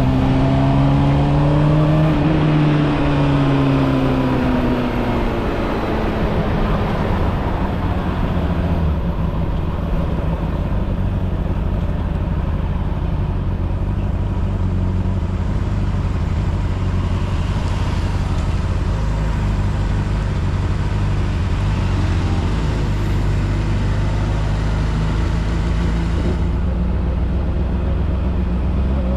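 Honda CBR600RR motorcycle engine, its revs falling away over the first few seconds and then settling into a steady idle, before rising again right at the end.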